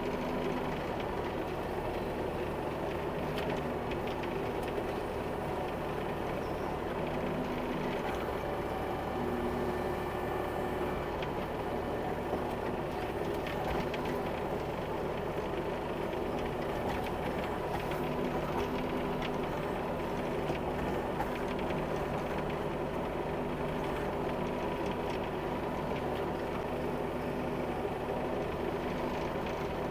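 Bobcat E26 mini excavator's diesel engine running steadily while its bucket compacts the filled soil.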